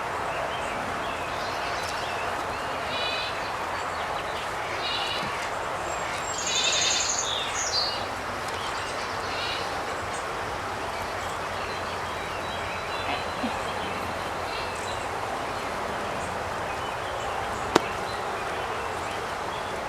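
Birds chirping in short bursts, several times in the first half, over a steady background hiss, with one sharp click near the end.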